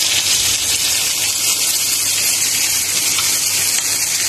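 Chicken pieces and mushrooms sizzling in a hot wok as a creamy liquid is poured in: a loud, steady hiss.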